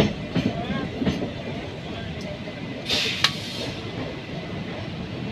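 Moving passenger train heard from its own coach: a steady rumble of wheels on the rails, with a few clacks over rail joints in the first second or so. There is a short hissing rush about three seconds in.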